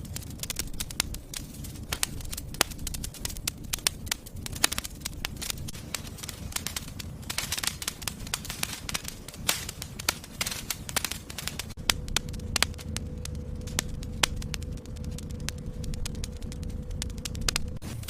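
Wood fire burning in a fireplace, crackling with frequent irregular sharp pops over a low steady rumble of flame.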